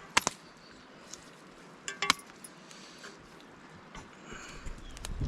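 Dishes and metal utensils clinking: two pairs of sharp, ringing clinks, one at the start and one about two seconds in. A low rumble builds near the end.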